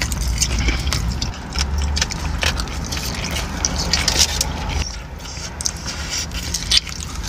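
Close-miked eating sounds from fried Wingstop food: chewing and lip smacking with many small crackly clicks, and a bite near the end, over a steady low rumble.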